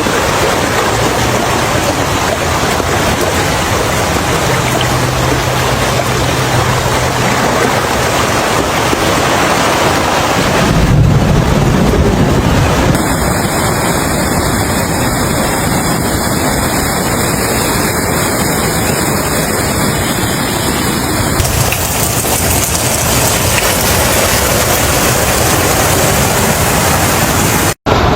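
Heavy rain: a loud, steady rushing noise whose character shifts abruptly about a third of the way in and again about three-quarters in, with a brief gap near the end.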